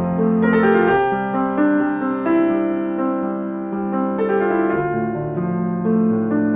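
Slow, gentle piano music: sustained notes and soft chords changing about once a second, at an even level.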